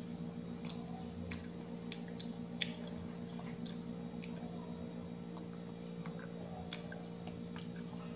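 Close-up chewing of peeled orange segments: soft wet mouth clicks and smacks at irregular intervals, about one a second, over a steady low hum.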